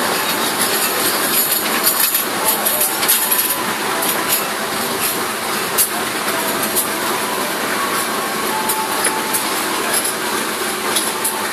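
Passenger train coaches rolling past on the adjacent track: a steady rumble of steel wheels on rail, with frequent irregular clicks and clinks.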